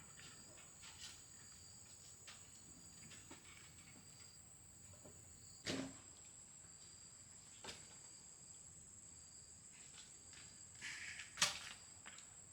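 Insects trilling in a steady, high-pitched drone, with a few scattered knocks; the two loudest come near six seconds in and about eleven and a half seconds in.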